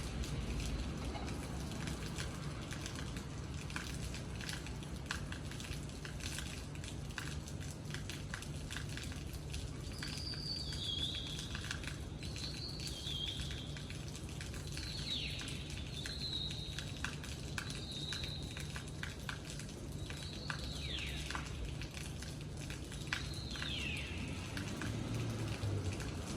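Rain pattering and dripping with a steady low rumble. From about ten seconds in, a bird calls repeatedly with short high notes, several of them dropping sharply in pitch.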